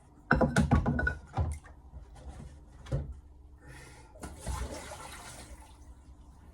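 Knocks and clatter of sharpening gear being moved and set down on a work surface, with one more knock a couple of seconds later. Then comes a brief rush of water, lasting about a second and a half.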